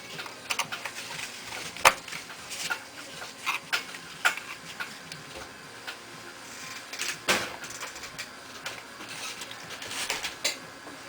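Irregular clicks, taps and knocks of small plastic and metal laptop parts being handled and fitted during reassembly, with two sharper knocks about two seconds in and about seven seconds in.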